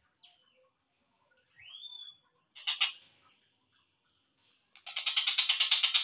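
Slowed-down recorded calls of a tengkek buto kingfisher. There are scattered short chirps, a rising whistle about two seconds in and a loud harsh note near three seconds. Near five seconds a loud, fast rattling series of repeated notes begins.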